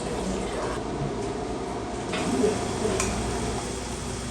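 Steady hum of a quiet kitchen with a few light knocks, as from handling dishes.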